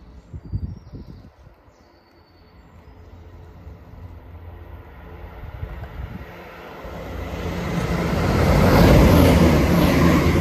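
Chiltern Railways diesel multiple unit approaching and passing the platform, its rumble and rushing noise building over several seconds to loudest near the end. A brief low thump comes about half a second in.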